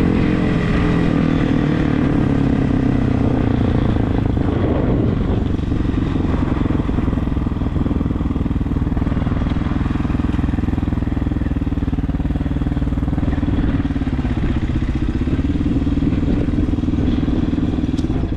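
Regulmoto TE enduro motorcycle engine running at fairly steady revs while under way. The revs dip briefly and pick back up about three-quarters of the way through.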